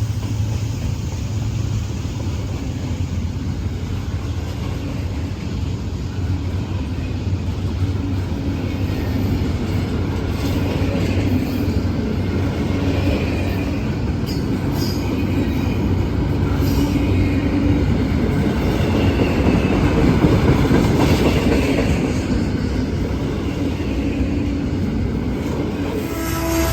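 Freight train cars rolling past on steel rails, a continuous rumble with scattered clicks of wheels over rail joints. It grows louder about two-thirds of the way through.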